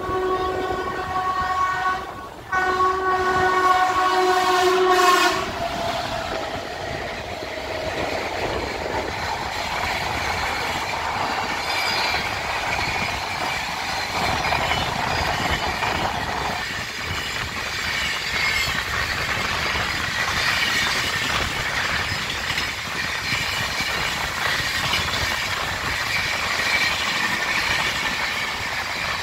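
Train horn sounding for the first five seconds, with a short break about two seconds in. Then the steady rush and clatter of a passenger train running at about 118 km/h, heard from an open coach door, while another passenger train passes on the adjacent track.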